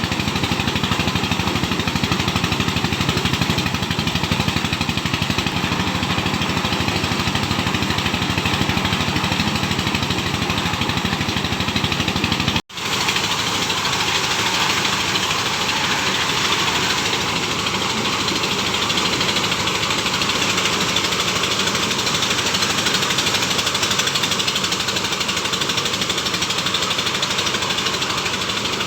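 Engine-driven corn sheller running steadily while shelling maize: engine noise mixed with a dense, fast rattle. The sound breaks off for an instant about thirteen seconds in, then carries on unchanged.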